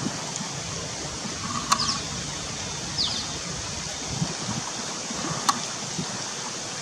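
Steady rushing background noise like a flowing stream, with a short high falling bird chirp about three seconds in and a couple of brief tones. Two sharp clicks, about 1.7 and 5.5 seconds in, stand out above the rest.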